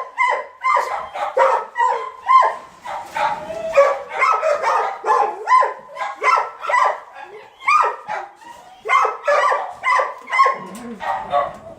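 Shelter dogs barking over and over, about two sharp barks a second with no let-up.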